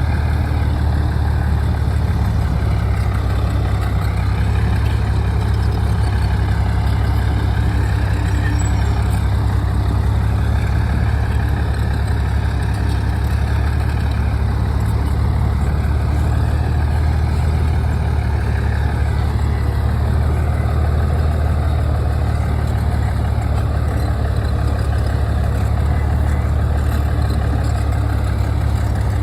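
Crawler bulldozer's diesel engine running steadily with a deep, continuous drone, its higher tones wavering slowly up and down every few seconds.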